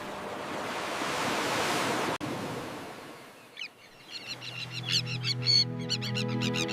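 Steady rushing noise like surf for about two seconds, cut off suddenly; then, after a brief lull, rapid high bird chirps over background music with long held notes that fades in.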